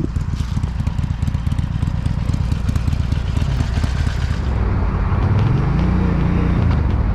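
Motorcycle engine running, its pitch rising and then easing off again about five seconds in.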